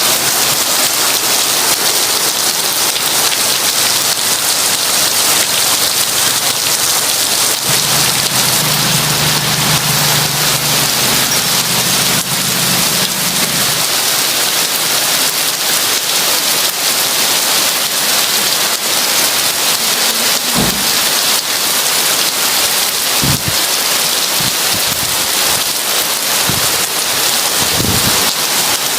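Heavy rain falling steadily, a dense hiss, with a low rumble of thunder from about 8 to 14 seconds in and a few short low thuds in the second half.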